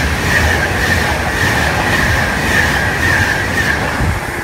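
Virgin Trains class 390 Pendolino electric train running through the platform at speed without stopping: a loud rush of wheels and air with a steady high-pitched ring and a regular beat of wheels over the rail, easing off near the end.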